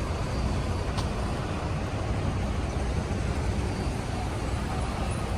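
Steady low rumbling outdoor background noise, with a single faint click about a second in.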